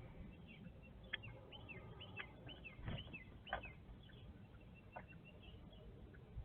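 Northern cardinal pecking and striking a glass window: about five sharp, irregularly spaced taps and knocks, with short high chirps between them.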